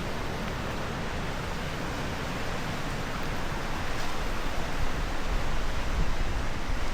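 Steady rushing of river water, with wind buffeting the microphone and growing stronger from about halfway through.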